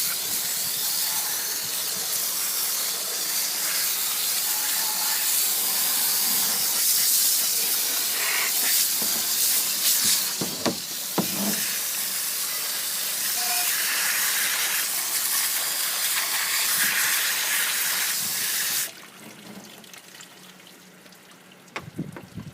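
Garden hose nozzle spraying water onto a push mower's engine to rinse off degreaser: a steady hiss of spray that cuts off suddenly about nineteen seconds in.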